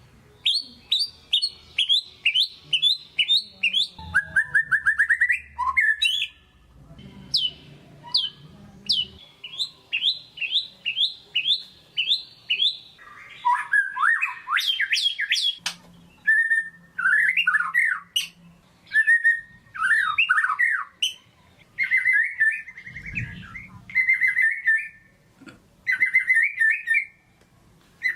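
White-rumped shama singing a varied song. It goes in fast runs of sharp, repeated downward-slurred notes, a rising run of notes, and chattering phrases, with short pauses between phrases.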